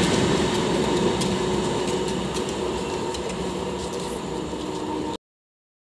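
Express passenger train's last coaches rolling away on the rails, the running and wheel noise steadily fading as the train pulls out, with a few light clicks; the sound cuts off abruptly about five seconds in.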